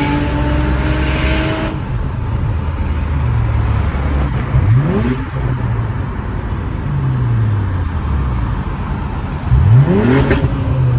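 Car engines running loud, with two sharp revs, about four and a half seconds in and again near the end, the pitch sweeping up quickly and then falling back.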